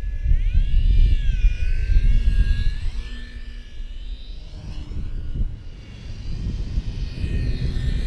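Electric RC model warbird flying by, its motor and propeller whine gliding up and down in pitch. The whine is strongest in the first three seconds and swells again near the end, over heavy wind rumble on the microphone.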